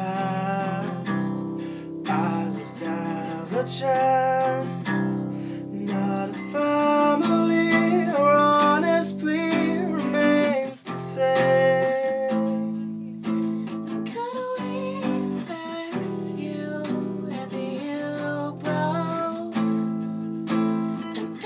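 Music: an acoustic guitar strumming the chords of a song.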